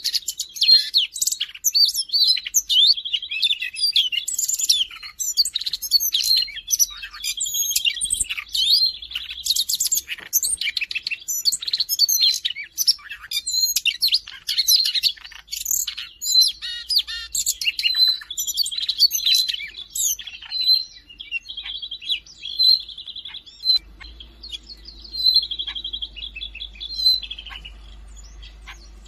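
Siberian rubythroat singing: a fast, varied song of chirps, trills and buzzy notes, run almost without a break and thinning out briefly about two-thirds of the way through.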